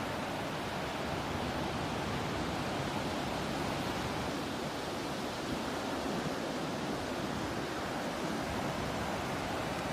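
Ocean surf and sea breeze as a steady, even wash of noise, with no distinct wave breaks standing out.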